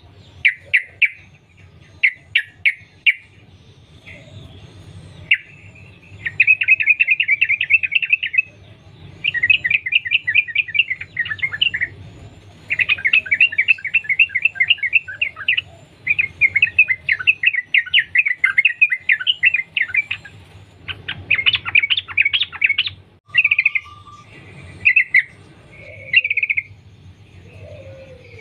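Yellow-vented bulbul singing long runs of rapid chattering notes, several runs of a few seconds each with short pauses between, and shorter separate phrases near the start and end.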